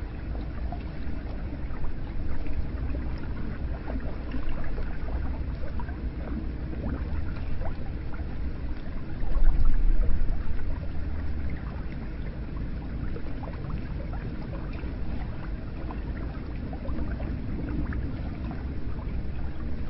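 Hot spring water running and splashing into a bath: a steady wash of water with many small drips and splashes through it. A low rumble swells briefly about halfway through.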